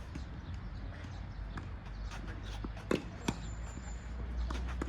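Tennis balls being struck by rackets and bouncing on a hard court, about six sharp irregular pops, the loudest about three seconds in, over a steady low hum.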